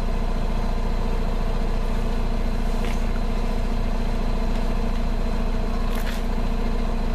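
Car engine idling steadily at the exhaust tip while still warming up from a cold start.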